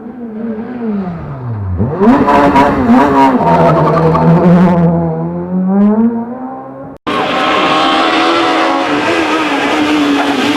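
Rally car engine slowing with falling revs, then accelerating hard with loud rising revs and gear changes. About seven seconds in the sound cuts abruptly to another loud, high-revving rally car engine.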